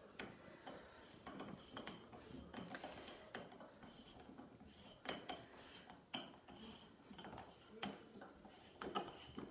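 Faint, irregular metallic clicks and clinks as the base of a cartridge faucet's handle is screwed down by hand.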